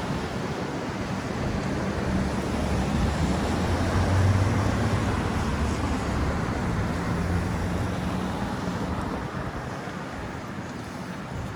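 Road traffic: a motor vehicle passing, its engine hum and tyre rush swelling to a peak about four seconds in and then fading into the steady city noise.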